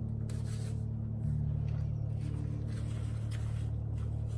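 A person chewing a mouthful of banh mi (baguette with pickled vegetables), soft faint mouth clicks over a steady low hum.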